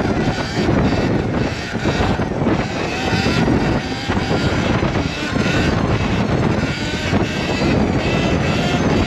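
Sur-Ron electric dirt bike's motor whining while ridden, its pitch rising and falling several times with the throttle, under heavy wind buffeting on the microphone.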